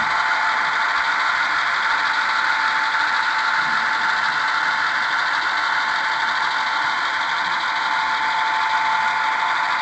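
HO scale model GP40 and GP38 diesel locomotives running with a train of coal cars: a steady, thin engine drone with a constant tone and no deep bass.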